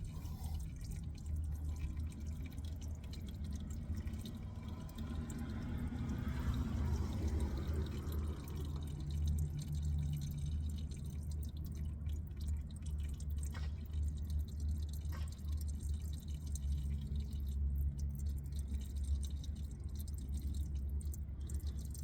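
Used engine oil draining from a car's oil pan into a catch pan, a steady trickle and drip over a low rumble.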